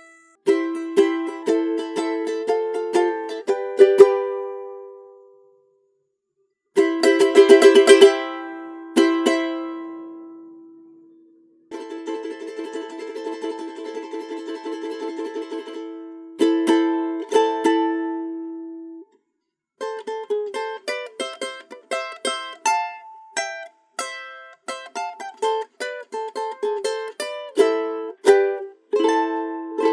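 Handmade prototype timple canario, a small five-string Canarian guitar with its first string tuned a tone higher, played solo. Strummed chords open, with a burst of fast strumming about eight seconds in and a long fast-repeated strum around the middle, then picked melody notes to the end, with short pauses between phrases.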